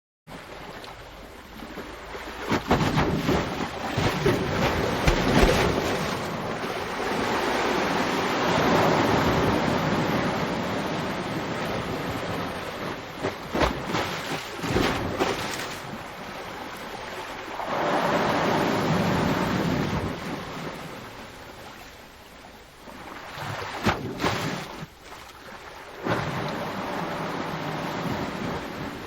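Ocean surf: waves breaking on a shore one after another, each surge swelling into a roar and falling away. The sound begins abruptly, and there are sharper crashes about two and a half seconds in, around the middle and near the end.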